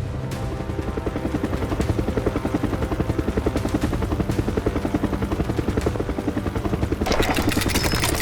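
A machine's rapid, even pulsing, about five beats a second, with a loud hissing noise joining about seven seconds in.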